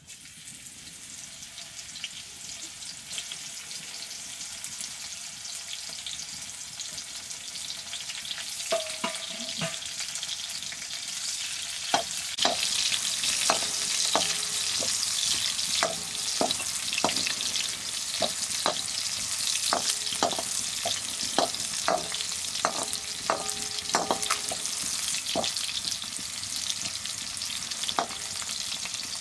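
Chopped green vegetables frying in a black iron wok over a wood fire: a sizzling hiss that builds over the first several seconds and then holds. From about nine seconds in, a wooden ladle stirs and knocks against the wok many times, some knocks leaving a short metallic ring.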